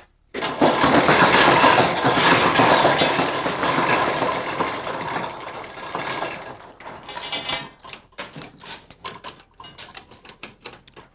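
A large loading door being opened: a long, loud mechanical rattle for about six seconds that fades, followed by a series of clicks and knocks as it finishes.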